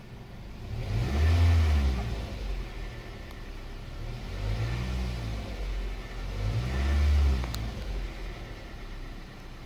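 A 2007 Toyota Corolla LE's 1.8-litre four-cylinder engine revved three times from idle while the car is stationary, each rev climbing and falling back over a second or two, heard from inside the cabin.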